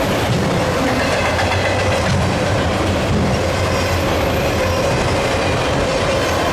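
Freight cars of a CSX manifest train rolling steadily past, steel wheels running on the rails with a thin, steady squeal over the rumble.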